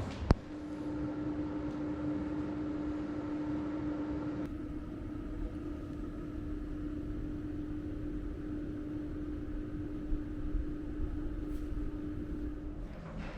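A sharp click, then a steady mechanical hum that runs until it stops shortly before the end, typical of a small electric appliance or fan switched on and running.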